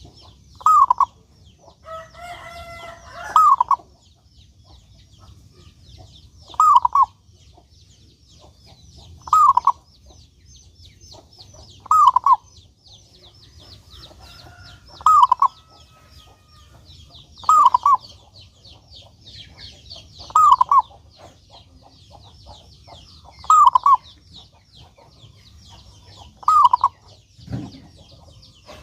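Zebra dove (perkutut) cooing over and over, a short two-part call repeated about every three seconds. Fast high chirping runs underneath, another longer call comes about two seconds in, and there is a low thump near the end.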